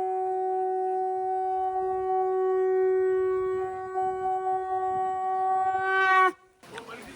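Conch shell (shankh) blown in one long, steady note that swells near the end and cuts off sharply about six seconds in.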